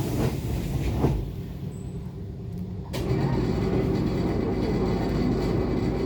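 Interior sound of an ET2 electric train standing at a station: a couple of knocks early on, then about three seconds in a steady mechanical noise with a low hum suddenly starts up.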